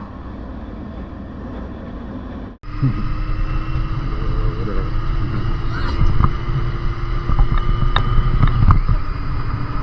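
Motorcycle on the road: the engine runs steadily under wind rushing over the rider's camera microphone. After a cut about two and a half seconds in, it gets louder with a steady engine drone.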